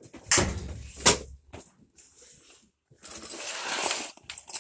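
Metal clatter and knocks of tools and parts being handled, with one sharp knock about a second in and a short rushing hiss near the end.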